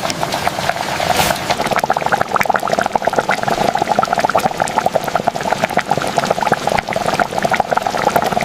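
Water bubbling steadily, a dense run of small pops.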